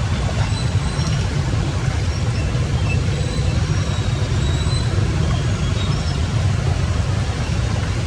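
Steady, loud rush of flowing water, heavy in the low end, with a few short, faint high chirps over it.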